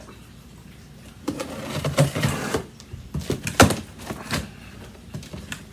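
Cardboard shipping box being handled and opened: a rustling scrape lasting about a second, then a series of sharp knocks and taps.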